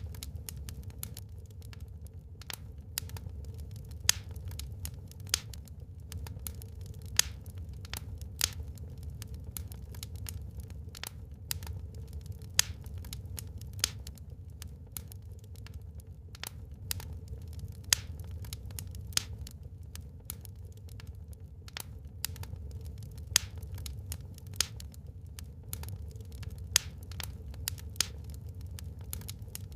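Wood fire burning in a fireplace, crackling with many small irregular clicks and a louder pop every few seconds, over a steady low rumble.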